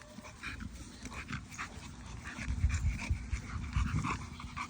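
American Bully dogs panting in quick, irregular breaths, with some low thumps.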